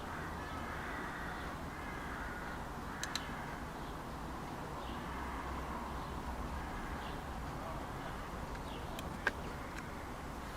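Birds calling repeatedly over a steady low rumble, with a few sharp clicks about three seconds in and again near the end.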